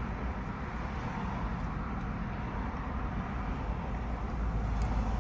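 Steady low rumble of a vehicle, even throughout with no distinct knocks or events.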